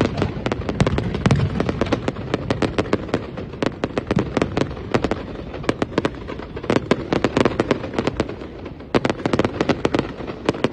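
Fireworks display: dense, irregular crackling and popping, many sharp cracks a second, with deep booms in the first second or so.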